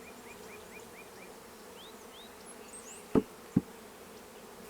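Honey bees buzzing steadily around an open hive as frames are moved into it. About three seconds in, two sharp knocks, less than half a second apart, are the loudest sounds.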